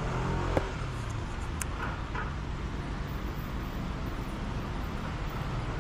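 Steady road traffic, a continuous low rumble of passing vehicles with a couple of faint clicks.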